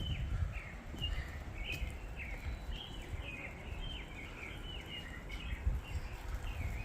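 Small birds chirping: a quick run of short, high calls, a few each second, over a low, uneven rumble.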